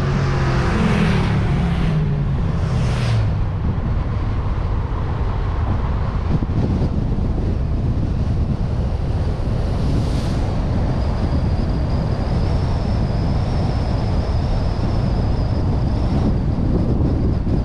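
Car driving, recorded from a suction-cup-mounted action camera: the engine note falls in pitch over the first few seconds, then a steady rumble of road and wind noise. A thin high whine joins from about ten seconds in.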